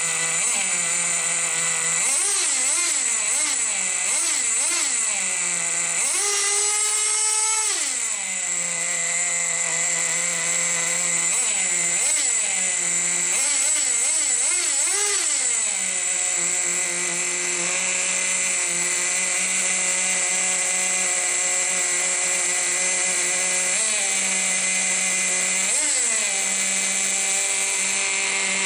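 Team Associated GT2 nitro RC truck's small two-stroke glow engine running, idling steadily between repeated throttle blips. The pitch rises and falls in quick revs around two to five seconds in and again around twelve to sixteen seconds, with one longer high rev held near seven seconds, then single blips near twenty-four and twenty-six seconds and again at the very end.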